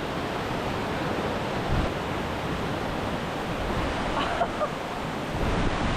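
Large waterfall in heavy spring runoff roaring at close range, a steady dense rush of falling water. Wind buffets the microphone a few times, about two seconds in and again near the end.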